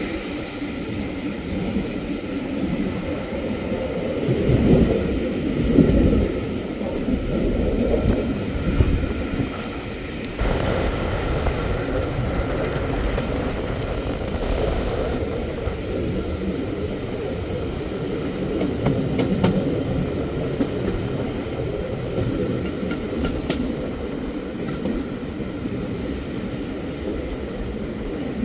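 Railway carriage running along the track: a steady rumble of wheels on rails that changes character about ten seconds in.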